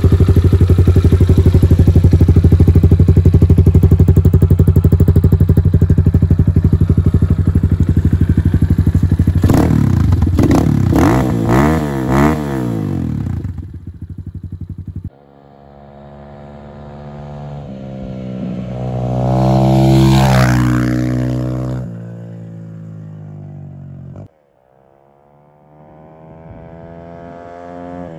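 Leramotors Killer 250 cc single-cylinder four-stroke pitbike engine running steadily close by, then revved up and down several times about ten seconds in. After that the bike is heard riding: it grows louder and then fades as its pitch drops, and a second approach builds near the end.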